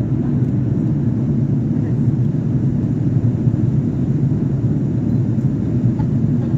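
Airliner engines and rushing air making a steady, even low rumble.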